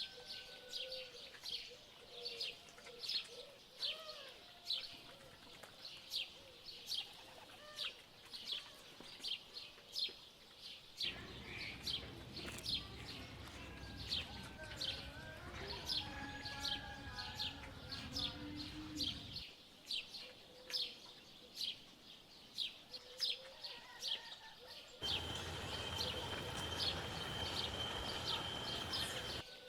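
Birds chirping: one bird repeats short, high chirps about twice a second, with other wavering bird calls lower down. A steady noise comes in for several seconds in the middle and again near the end, the second time with a thin, steady high tone.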